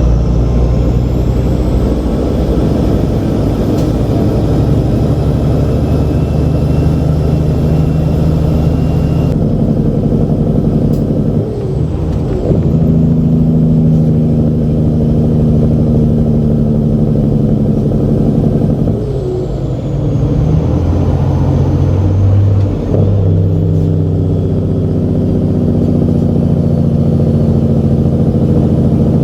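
Diesel semi-truck engine pulling under load, its pitch stepping down and climbing again several times, with a brief dip in level at each gear change.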